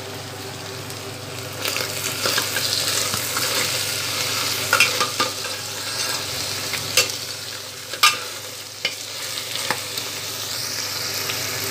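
Minced mutton and onions sizzling in oil in a pressure cooker while a metal spoon stirs them, with several sharp scrapes and clinks of the spoon against the pot. The stirring gets louder from about two seconds in. This is the keema being browned (bhuna) in the onions before the spices go in.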